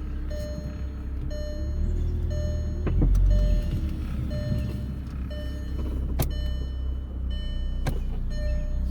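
A 2002 Volkswagen Jetta's engine running after a cold start following six months parked, with a low rumble that swells briefly about three seconds in. A short electronic warning chime repeats about once a second, and two sharp clicks come near the end.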